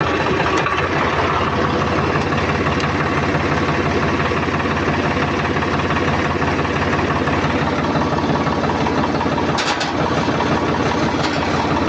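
Swaraj tractor's diesel engine running steadily at idle, with a brief sharp hiss a little under ten seconds in.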